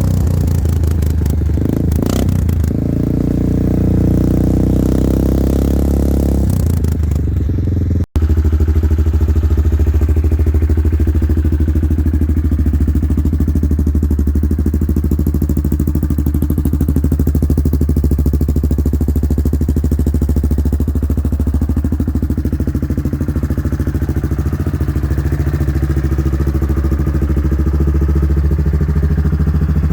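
Wolverine 450 ATV's single-cylinder four-stroke engine running, its exhaust going out through an aftermarket hexagon slip-on muffler. The engine runs steadily, with a brief cut in the sound about eight seconds in.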